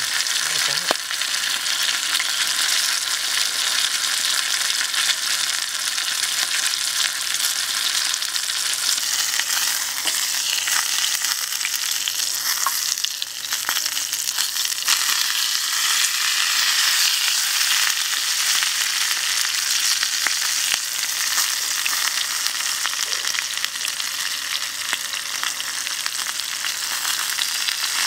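Chicken wings frying in hot oil in a small pan: a steady, dense sizzle full of fine crackling spatter. It dips briefly about halfway through.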